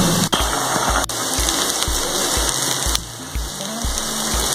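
Prawns and grated coconut sizzling as they dry-fry in a pan, a steady rain-like sizzle. A low pulse repeats about twice a second underneath.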